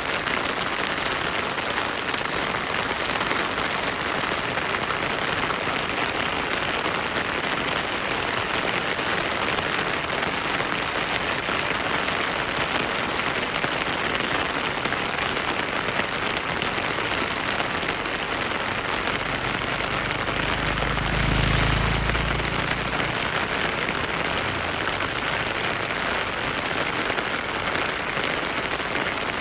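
Heavy rain falling steadily, a dense even hiss. About twenty seconds in, a low rumble swells for a few seconds and fades.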